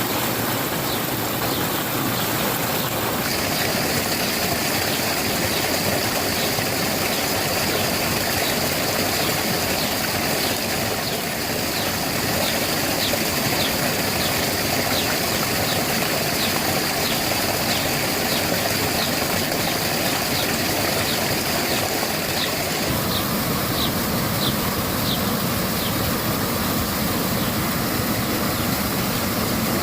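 Water from a spring rushing and splashing steadily. Over it, a short high chirp repeats about twice a second through most of the stretch.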